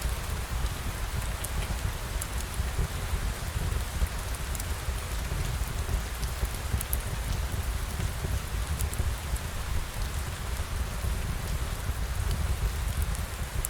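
Steady rain falling, with a deep low rumble underneath and scattered faint ticks.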